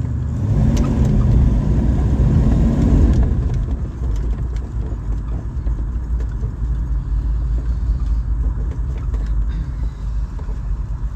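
1980s Ford Bronco driving, its engine and road rumble heard from inside the cab. The engine note swells for the first three seconds or so, then settles into a steady low rumble.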